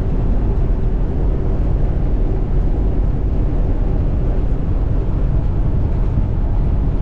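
Steady drone of a truck driving at highway speed, engine and road noise heard from inside the cab, heavy in the low end and unchanging.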